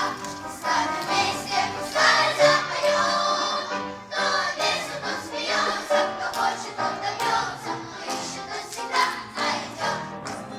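Children's choir singing in unison over instrumental accompaniment with a steady beat.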